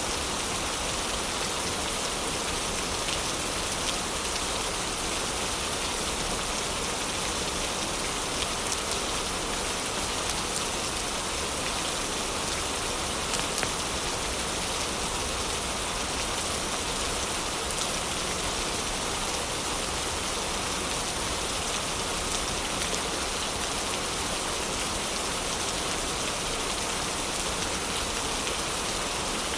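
Heavy rain falling steadily, an even dense hiss with a few faint clicks now and then.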